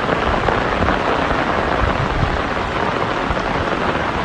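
Loud, steady rushing and splashing of water, with no break or change.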